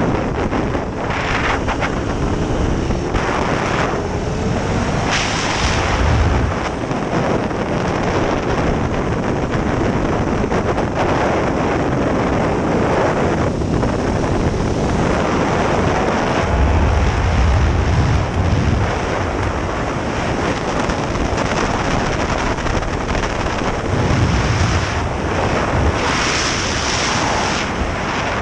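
KTM 1290 Super Duke R's V-twin engine under heavy wind buffeting on the microphone at speed, its engine note rising and falling.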